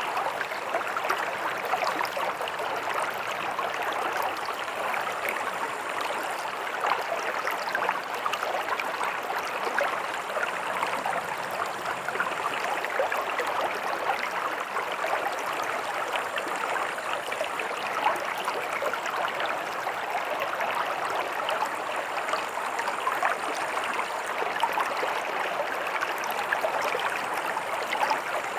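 Stream water running and gurgling steadily over rocks, an even rushing with constant small splashes.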